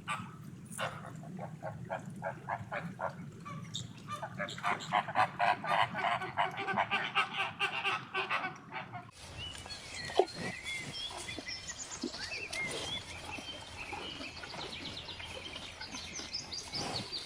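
An animal gives a rapid run of repeated calls, several a second, growing louder and denser partway through. After a cut about nine seconds in, small birds chirp and trill.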